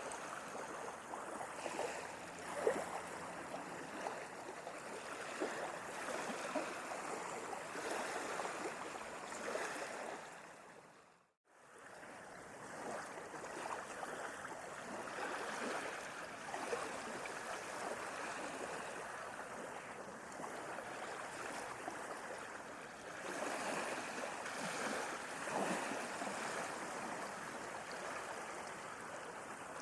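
Small sea waves lapping and washing, a steady bubbling, gurgling wash of water that swells gently in level. About eleven seconds in it fades briefly to silence and comes straight back.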